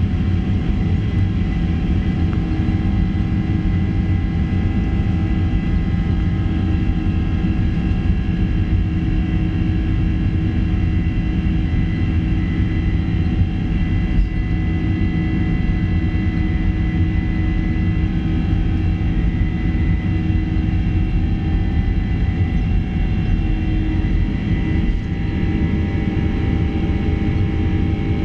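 Boeing 767-300ER engines running steadily, heard from inside the cabin as a loud, even rumble with several steady whining tones over it.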